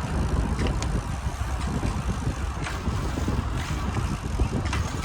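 Wind buffeting the microphone of a camera carried on a moving bicycle, a steady low rumble with road and tyre noise underneath, broken by a few short clicks or rattles.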